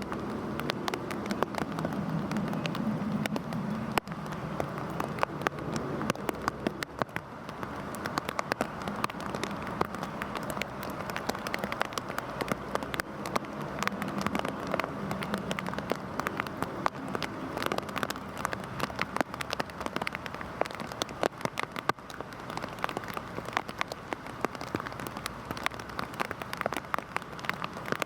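Heavy rain falling steadily, with many separate drops clicking sharply on a hard surface. A low rumble sits under it for the first few seconds and briefly again near the middle.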